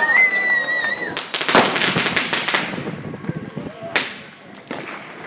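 New Year's Eve fireworks going off: a high wavering tone for the first second, then a rapid string of crackling bangs lasting about a second and a half, and one sharp single bang near the end.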